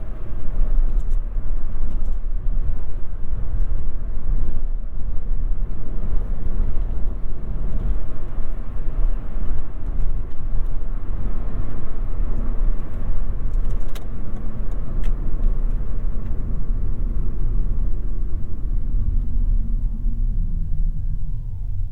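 A 2022 Toyota Yaris 1.5 Hybrid driving, heard from inside the car: a steady low road and tyre rumble with drive noise. There are two faint clicks about two-thirds of the way through.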